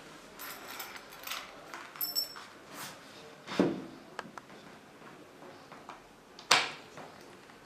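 Scattered clicks and light knocks of shoe-cabinet parts being handled during assembly, with two louder knocks about three and a half and six and a half seconds in.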